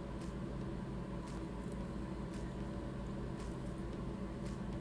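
Steady low mechanical hum with a few faint ticks scattered through it.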